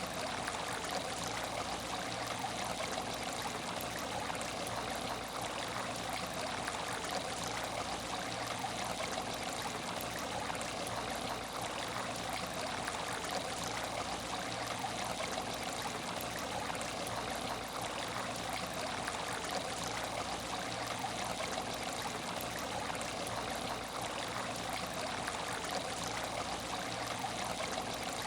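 Aquarium tank water trickling and running steadily, an even, unchanging flow.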